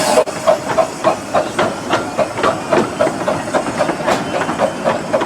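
Train on the 15-inch-gauge Romney, Hythe and Dymchurch Railway running, with a quick, even clatter of about four to five beats a second. A loud steam hiss cuts off just after the start.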